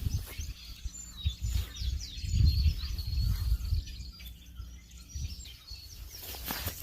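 Small birds chirping and calling, over a low rumble that swells about two and a half seconds in. There is a brief sharp rustle near the end.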